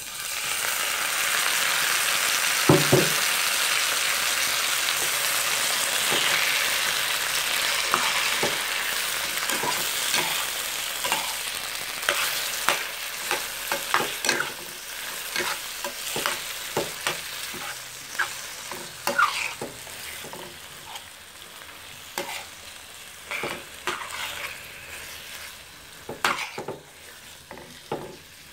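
Tomato wedges dropped into hot oil with frying onions set off a loud sizzle that slowly dies down as the cold tomatoes cool the pan. There is a dull knock about three seconds in, and then a spoon stirs the pan, scraping and clicking against the metal again and again.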